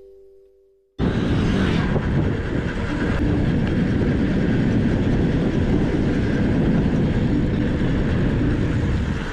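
Loud, steady rumbling rush of noise with no clear pitch, heaviest in the low end, that cuts in suddenly about a second in and runs on evenly.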